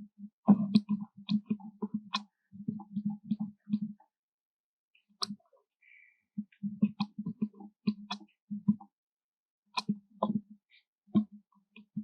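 A monkey chewing papaya close by, making wet smacking and clicking sounds in irregular runs with short pauses.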